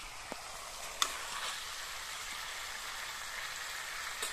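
Chicken and potatoes frying in a thick gravy in an iron wok, a steady sizzle, while a metal ladle stirs them, with one sharp clink about a second in.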